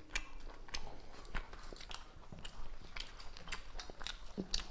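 Close-up eating sounds of people eating chicken curry with rice and flatbread by hand: wet chewing and lip smacks, heard as a string of short, irregular clicks.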